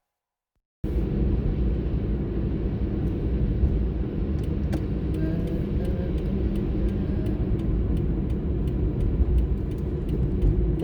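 Car driving on a road, heard from inside the cabin: a steady low rumble of engine and tyre noise that starts suddenly about a second in, with scattered light ticks over it.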